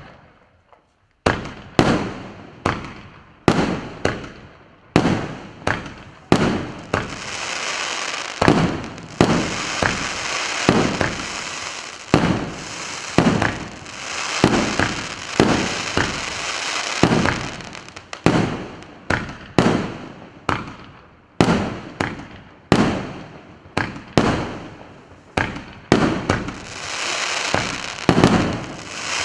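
PC951 'Брызги Абрау' firework cake firing its shots one after another, about one a second after a short pause at the start, each a sharp bang that dies away quickly. In two stretches a steady hiss fills the gaps between the bangs.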